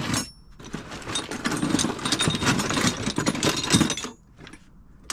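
Metal brake parts (calipers and brackets) clanking and rattling as they are rummaged through in a box: a dense run of knocks that dies down about four seconds in, leaving a few scattered clicks.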